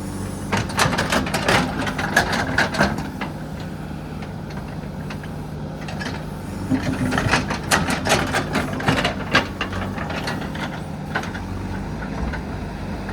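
A JCB 3DX backhoe loader's diesel engine running steadily, with two spells of clattering knocks and scrapes, from about half a second to three seconds in and again from about six and a half to nine and a half seconds in.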